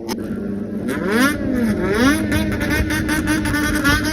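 Honda CBX400F's air-cooled inline-four being revved in a rhythmic throttle 'call', its pitch rising and falling several times over a steady running note.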